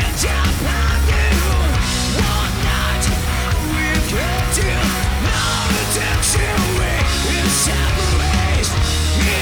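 Hard rock band playing: distorted electric guitars with bending notes over heavy bass and drums, with repeated cymbal crashes.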